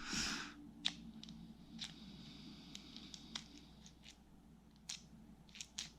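A short rustle, then faint scattered clicks and taps as the small parts of a disassembled fishing reel are handled.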